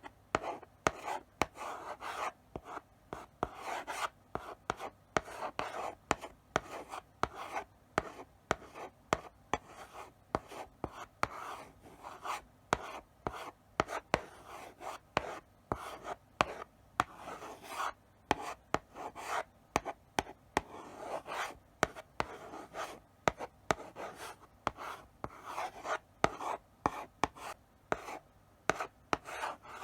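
Chalk writing slowly on a blackboard: short scratchy strokes, broken by sharp taps as the chalk meets the board, one after another without pause.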